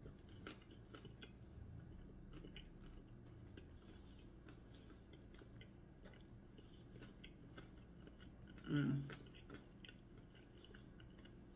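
A person chewing a mouthful of chicken flauta, with soft wet mouth clicks and smacks. About nine seconds in comes one short, louder hummed vocal sound.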